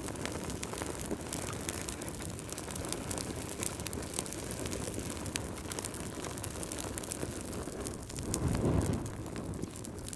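Wood fire crackling, with many small sharp pops over a steady low rumble of flames; the rumble swells briefly a little after eight seconds in.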